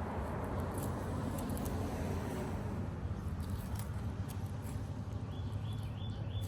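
Fillet knife slicing and scraping along a striped bass's rib cage, with faint small clicks, over a steady low hum. Near the end there is a quick run of about five short, high chirps.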